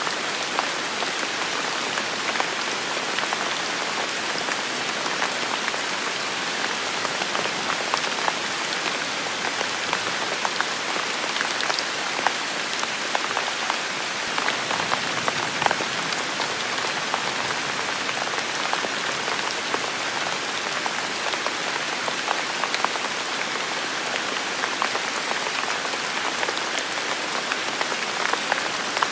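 Heavy rain falling steadily: a dense, even hiss with countless individual drops ticking through it.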